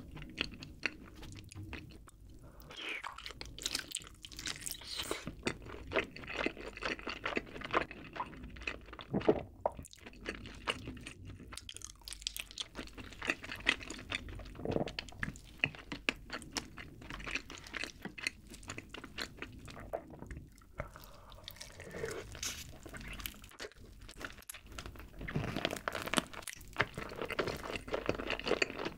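Close-miked chewing and biting into a roasted chicken drumstick in spicy barbecue sauce, with many quick mouth clicks and smacks.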